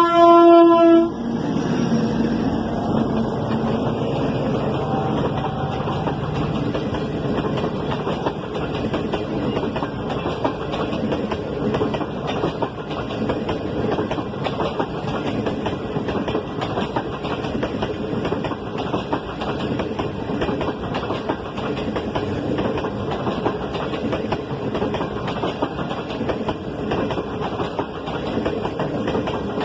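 A diesel locomotive's horn sounds and cuts off about a second in. Then the train's cars roll past with steady clickety-clack of wheels over the rail joints.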